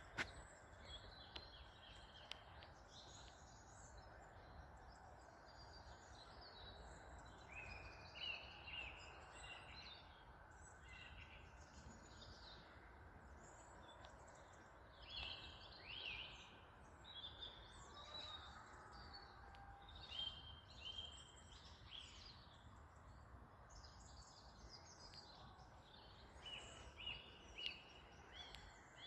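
Faint songbird song: short, high chirping and warbling phrases that come every second or two, over a steady low background noise.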